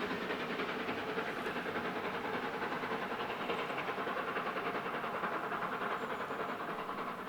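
Steam-hauled train running, a steady dense rush of locomotive exhaust and rolling wheels.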